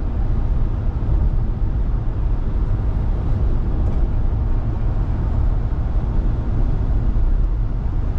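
Steady road and wind noise inside the cab of a Dodge gas pickup at highway speed, a low rumble with no distinct changes.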